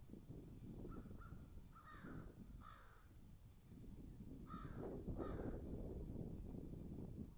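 A bird calling in short repeated calls, mostly in pairs about half a second apart, with the loudest pair a little past the middle, over a steady low background noise.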